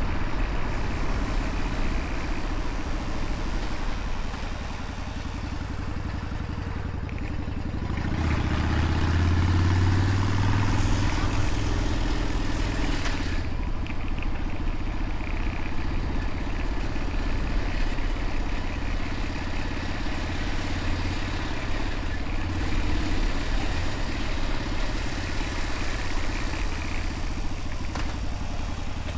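Motorcycle engine running while riding, with steady wind noise; the engine grows louder and its pitch rises about eight seconds in, then settles back.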